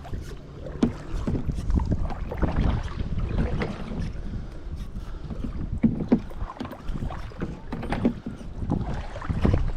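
Kayak being paddled: irregular paddle strokes and splashes in the water, with a low wind rumble on the microphone.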